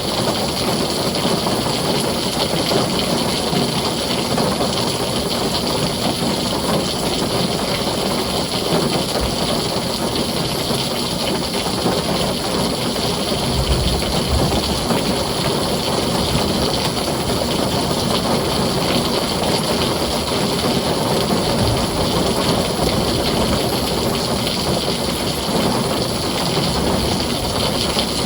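Heavy rain falling steadily on a tin roof, with low rumbles about halfway through and again near the end.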